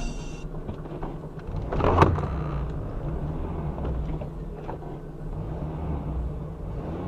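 Car running on the road, heard as a steady low rumble inside the cabin, with one sudden loud thump about two seconds in.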